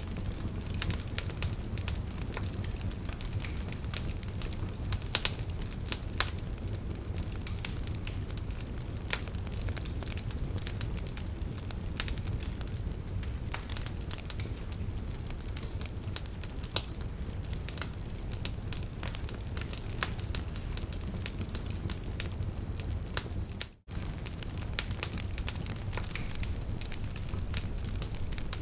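Wood fire burning in a fireplace: a steady low rumble of flames with frequent sharp crackles and pops of burning logs. The sound drops out for an instant about three-quarters of the way through.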